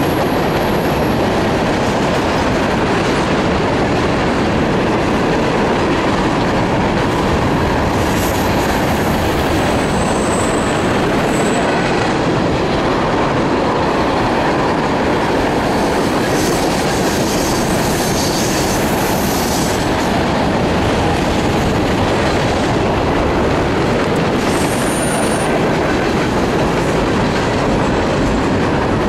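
Loaded freight train of tank cars and covered hoppers rolling past on curved track: a steady rumble of steel wheels on rail, with brief high wheel squeals about ten seconds in and again near twenty-five seconds.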